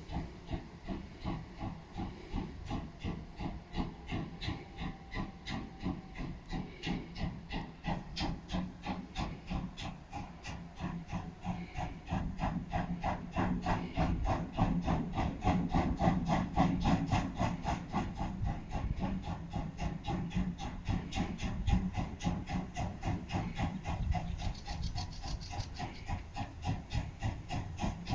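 DR class 50.35 two-cylinder steam locomotive 50 3516 working under steam, its exhaust chuffing in a steady rhythm of about four beats a second. The beats grow louder about twelve seconds in.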